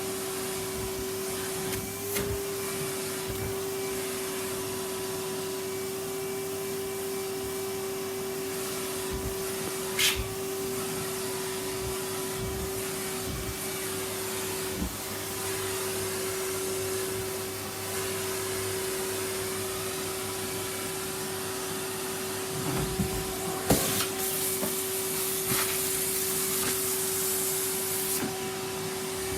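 Numatic Henry canister vacuum cleaner running steadily with a constant motor hum, sucking up wood shavings and dust. A few sharp clicks and knocks break in, the loudest about ten seconds in and near the end.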